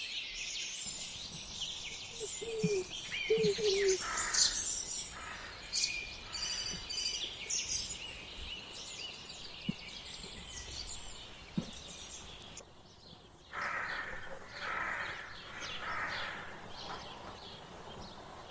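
Several small birds chirping and singing together in a busy chorus of short high notes and trills. About thirteen seconds in, the chorus cuts off abruptly and gives way to a few slower, lower repeated calls.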